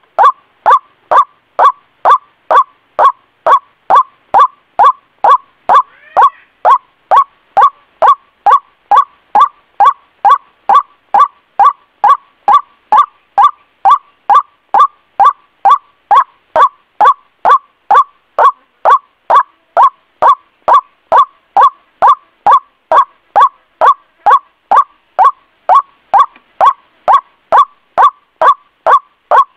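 White-breasted waterhen calling: a short, sharp note repeated at an even pace, about twice a second, as a bird-lure call.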